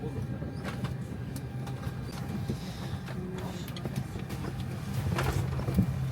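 Steady low hum of an Airbus A319 cabin parked at the gate, with air conditioning running. Scattered small clicks and knocks sound over it, a louder cluster about five seconds in.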